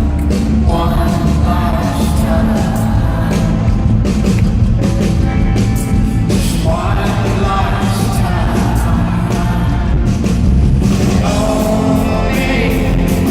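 Live rock band playing loudly with a singer's voice over dense instruments and drums, heard as a crowd recording in a concert venue.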